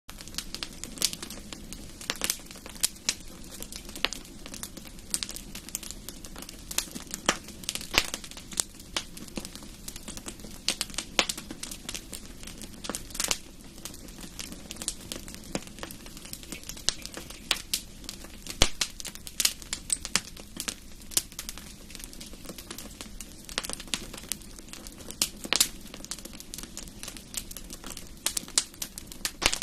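Wood fire crackling in a fireplace: irregular sharp pops and snaps over a steady low hiss of burning logs.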